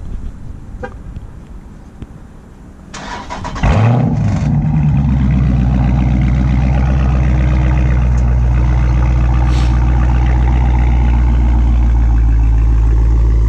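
Cold start of a 2018 Dodge Charger 392's 6.4-litre naturally aspirated V8. The starter cranks about three seconds in, the engine catches with a quick rising rev flare, and it then settles into a loud, steady idle.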